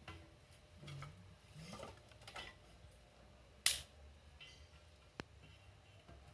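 Campfire burning, with a single sharp, loud pop from the burning wood about three and a half seconds in and a small snap near five seconds.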